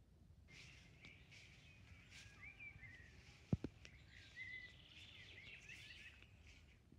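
Faint birdsong: small birds chirping and warbling in quick gliding phrases. A single sharp tap about halfway through, over a faint low rumble.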